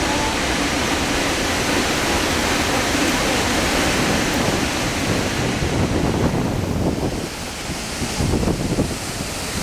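Krimml Waterfalls' falling water rushing steadily, with wind buffeting the microphone in uneven low gusts from about two-thirds of the way in.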